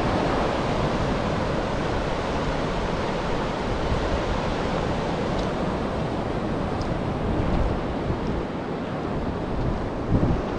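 Steady rush of wind and ocean surf, with gusts of wind buffeting the microphone.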